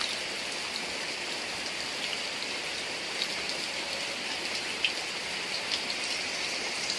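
Heavy rain falling steadily: an even hiss with scattered sharper drop hits.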